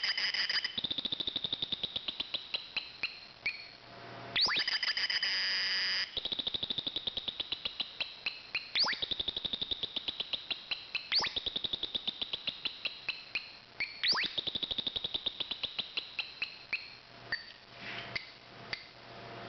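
Electronic bird-chirp circuit (a BC547/BC557 transistor oscillator) twittering through a small loudspeaker. Rapid chirps near 4 kHz fade away as the capacitor discharges, and a sharp rising sweep restarts them each time the push button is pressed again, five or so times.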